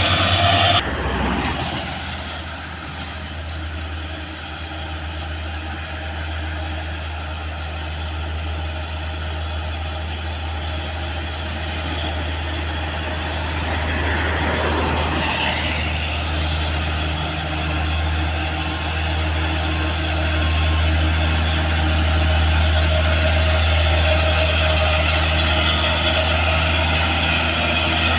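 Heavy diesel truck engines running with a steady low drone, with a vehicle passing and the noise swelling and fading about halfway through.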